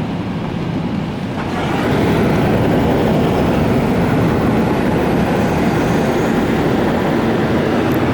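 LaserWash 4000 touchless car wash spraying high-pressure water over the car, heard from inside the car as a steady rushing hiss. It swells louder about a second and a half in, as the spray reaches the car.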